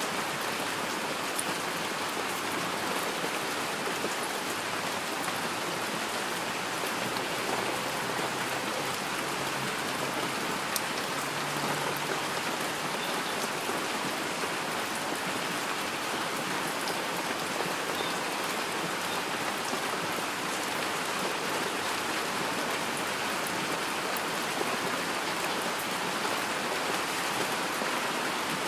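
Steady rain falling in an even hiss, with a few sharper drop ticks scattered through it.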